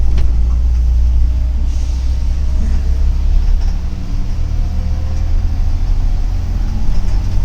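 Double-decker city bus heard from inside the passenger cabin: a steady low engine and road rumble, with a single click right at the start.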